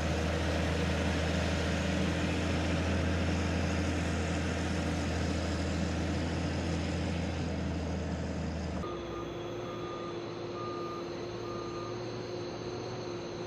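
Heavy diesel truck engine running with a deep steady drone. About nine seconds in it cuts off and gives way to a steady hum and a reversing alarm beeping about once a second, four times.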